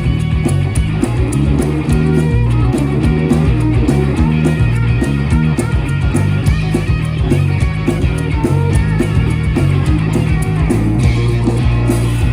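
Live blues rock-and-roll band playing an instrumental break: electric guitar over a walking bass line and a steady drum beat, with no singing.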